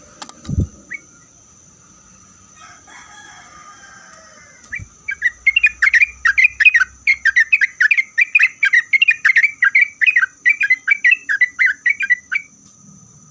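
Yellow-vented bulbul singing a long, fast run of loud, bubbling notes at about four a second. The run starts about five seconds in and stops shortly before the end. A single dull thump comes just at the start.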